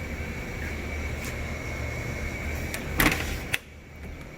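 Steady machine hum with a thin high whine, a loud metallic clatter about three seconds in and a sharp click half a second later, after which the hum drops and the sound goes quieter.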